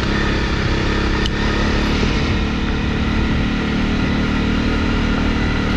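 Honda CRF250 trail bike's single-cylinder four-stroke engine running at a steady road speed while riding along a gravel track.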